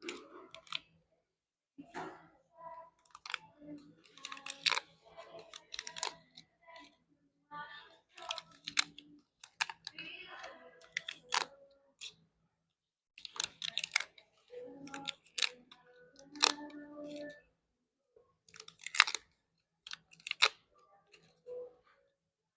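Paper pull-tab tickets being opened by hand, their perforated doors torn and pulled back in runs of short crackly tears and rustles, with brief pauses between tickets.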